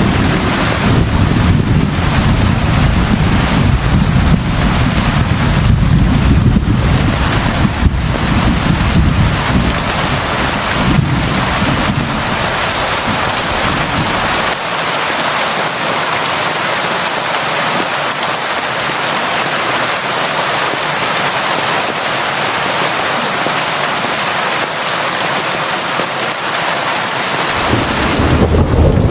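Constant heavy rain falling: a dense, even hiss. A deep low rumble runs under it for about the first half, drops out about halfway through, and comes back near the end.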